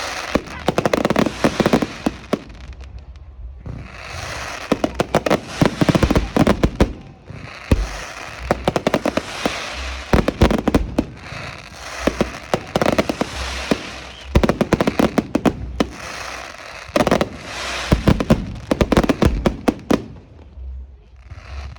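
Fireworks going off: dense strings of rapid bangs and crackles in bursts of a few seconds, separated by short lulls.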